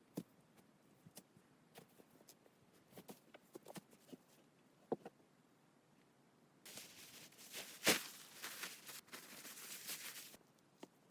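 Scattered light clicks and knocks, then about four seconds of rustling, crunching noise with one sharp knock in the middle of it.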